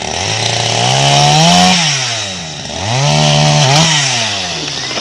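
An engine revving hard: its pitch climbs, drops back, then climbs and falls again.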